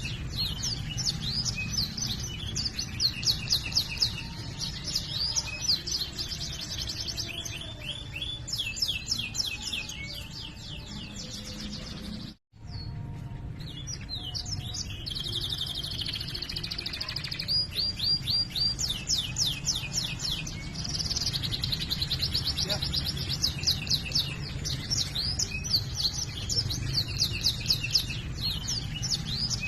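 Domestic canary singing in full song: long runs of rapid rolling trills and high chirped notes, phrase after phrase, over a steady low hum. The sound drops out briefly about twelve seconds in, then the song resumes.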